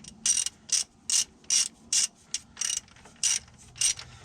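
Hand ratchet wrench clicking in short strokes, about ten quick swings at roughly two or three a second, as bolts on the skid steer's engine are run down snug before final torquing.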